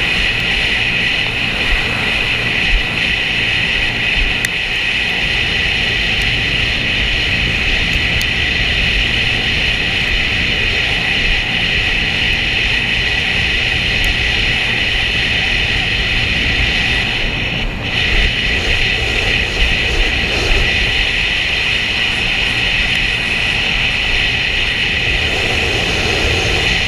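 Sea-Doo jet ski's engine and jet pump running steadily under way, a loud continuous drone with a strong high whine, dipping briefly about two-thirds through.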